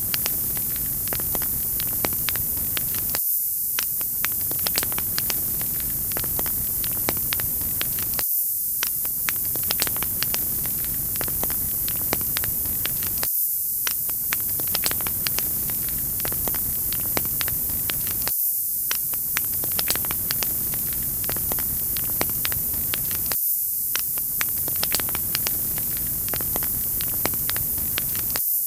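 Fireplace wood fire crackling: many small sharp pops and snaps over a constant hiss. The pattern repeats about every five seconds.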